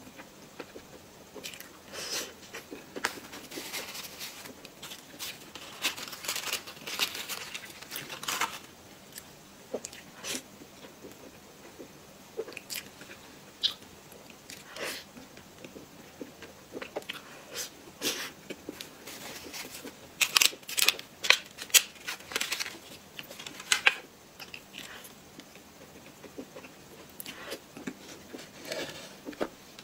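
Close-miked eating sounds of soft, cream-filled cake: bites, chewing and small wet mouth clicks, coming in irregular bursts. The loudest run of clicks comes about twenty seconds in.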